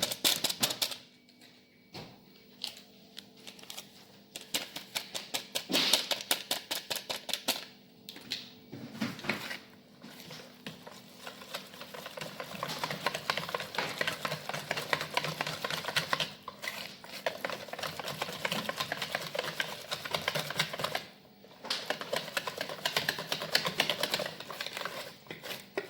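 Thick semolina batter being beaten by hand in a bowl: a fast run of clicking and tapping as the utensil strikes the bowl, stopping briefly a few times.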